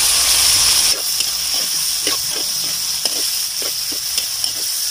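Pork and vegetables sizzling in a hot metal wok as soy sauce goes in, the hiss louder for about the first second and then settling. A metal spoon scrapes and taps the pan several times.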